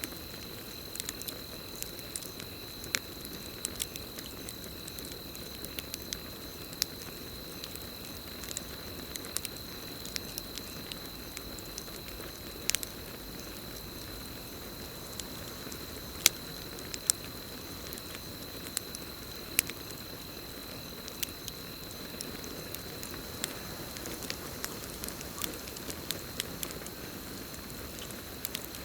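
Campfire burning, with irregular sharp crackles and pops over a soft steady hiss of flames. A continuous high cricket trill runs underneath.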